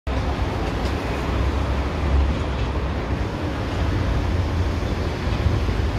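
Steady low rumble of a CAF series 7000 electric commuter train approaching along the line, heard from some distance and mixed with general outdoor noise.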